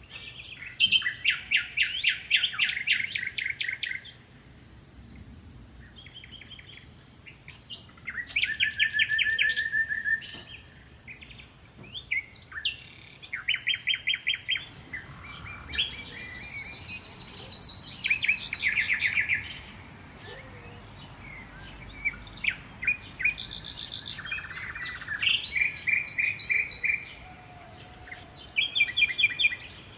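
Songbirds singing in bouts of rapid trills and quickly repeated chirps, several phrases overlapping, each bout lasting a few seconds with short quieter pauses between.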